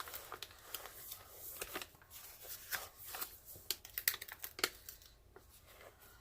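Diamond painting canvas and its plastic cover sheet being handled and unrolled, giving a run of irregular crinkles and crackles that thin out near the end.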